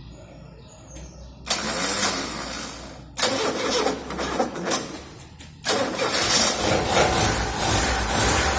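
Car engine being started: the starter cranks in two spells with short breaks between, then the engine catches and keeps running.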